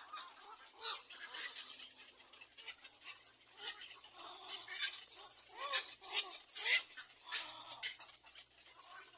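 Little egret nestlings calling at the nest: irregular short calls mixed with sharp clicks.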